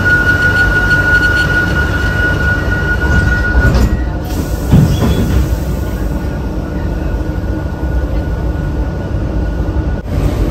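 Renfe commuter train running, heard from inside the passenger car: a steady low rumble with a thin high whine that fades out about a third of the way through. A short louder bump comes near the middle.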